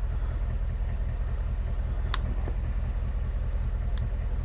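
Ford F-150 pickup engine idling steadily with a low rumble, with a few faint clicks about halfway through and near the end.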